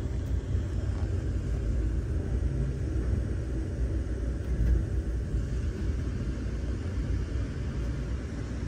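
Steady low rumble of a moving Amtrak passenger train, heard from on board.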